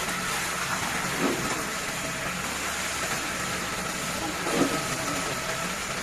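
Heavy machinery running steadily on a concrete pour, most likely the diesel engine and pumping unit of a concrete pump truck, with a constant hum and hiss. Two brief louder swells come about three seconds apart.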